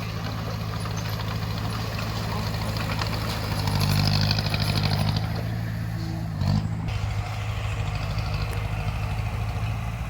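Bulldozer's diesel engine running with a steady, fast pulse. It grows louder for a couple of seconds about four seconds in, then settles back.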